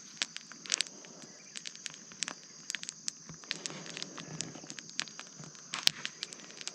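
Burning rubbish fire crackling, with many sharp irregular pops and snaps, over a steady high chirring of insects.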